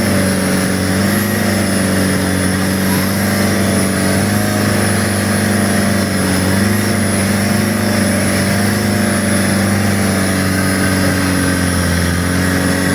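A boat's engine running steadily at a constant throttle, its pitch wavering slightly, over a continuous rush of noise.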